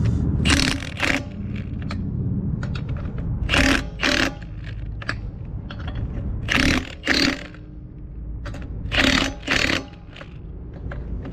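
Impact wrench snugging an Escalade's lug nuts in short pairs of bursts, two quick hits about half a second apart, repeated every few seconds as it moves from nut to nut, tightened only lightly.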